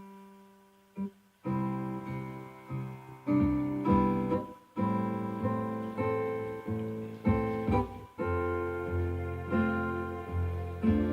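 Instrumental keyboard intro of a song, with piano-like notes. One note sounds, then another about a second in, then a steady run of struck chords, and deeper bass notes join about 8 seconds in.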